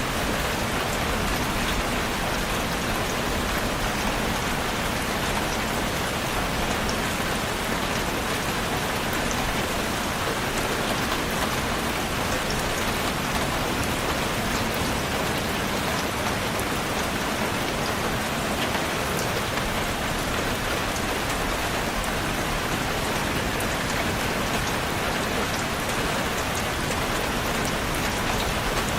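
Steady rain falling on a surface, an even hiss with fine scattered drop ticks and no let-up.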